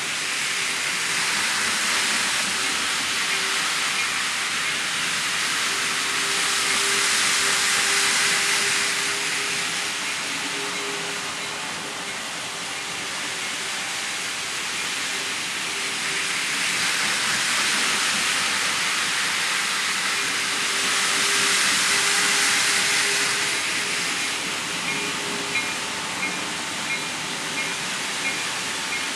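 N scale model train running on its track: a steady hiss of wheels on rail over a faint motor hum, swelling twice as the train comes close and fading as it moves away. A run of light, evenly spaced clicks comes near the end.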